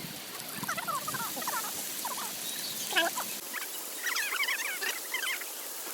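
Small animals calling in quick clusters of wavering chirps, with a louder group about three seconds in and another near the end, over a steady background hiss.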